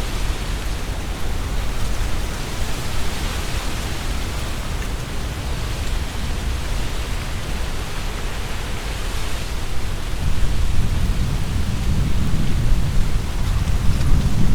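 Strong wind gusting through trees, the leaves rustling in waves. A low rumble of wind on the microphone grows stronger about ten seconds in.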